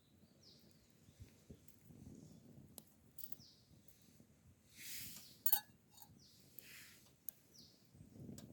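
A bird calling repeatedly in short falling notes, with a few scattered small clicks and, a little past the middle, one sharp clink that is the loudest sound.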